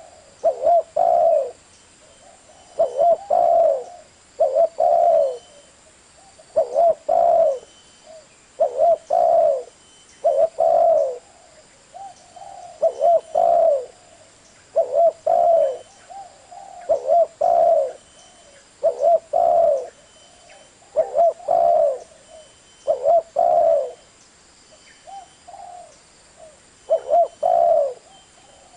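Spotted dove cooing: repeated phrases of two or three low coos, a new phrase about every two seconds.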